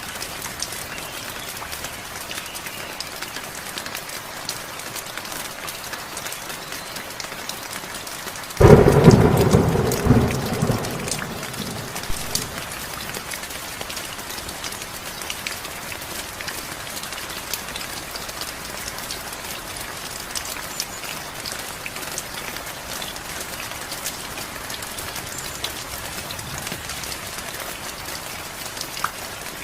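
Steady heavy rain, with a sudden loud thunderclap about a third of the way in that rumbles and fades away over a few seconds.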